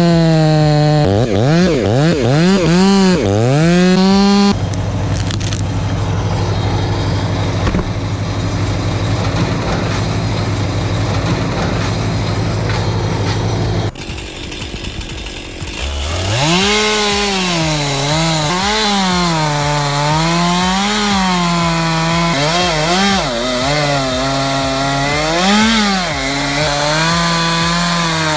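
Chainsaw engines running and cutting wood, the engine note rising and falling as the throttle is worked and the saw bogs under load. The sound breaks off suddenly about halfway through, is quieter for a couple of seconds, then another saw revs up and keeps cutting with a wavering pitch.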